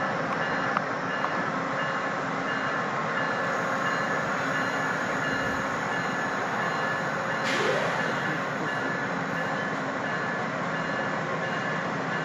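Train running steadily: a continuous rushing noise with a few thin, steady whining tones over it.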